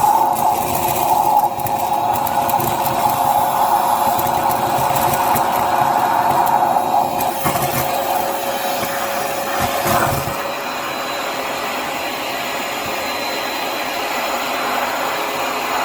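Hyper Tough vacuum's motor running steadily, with a rattling crackle of beads being sucked up through it. About ten seconds in, the crackle stops and the vacuum runs on more quietly and evenly.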